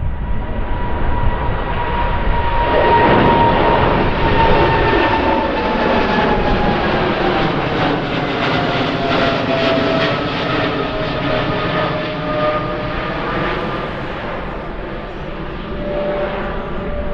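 Jet airliner passing close by, its engine whine sliding slowly down in pitch as it goes past, loudest a few seconds in.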